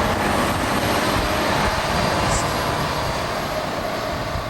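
Large snowplow truck running loud and steady as it passes close by, pushing snow with its plow.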